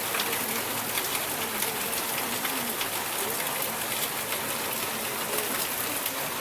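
Steady rain falling: a dense, even hiss full of small drop ticks.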